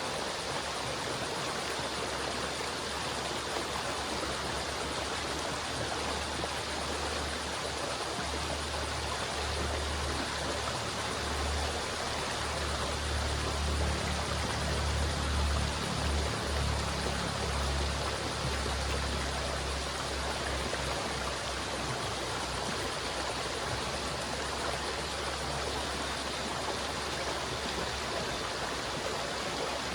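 River water flowing steadily in an even rushing wash. A low rumble beneath it swells for a while in the middle, then eases off.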